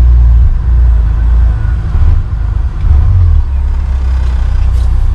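Army flatbed truck's engine and road noise while driving, a deep steady rumble heard from inside the cab.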